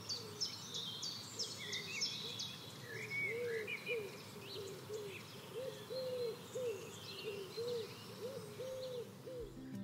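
Outdoor birdsong. A low hooting call repeats about twice a second, and higher chirps and short trills from small birds are busiest in the first few seconds.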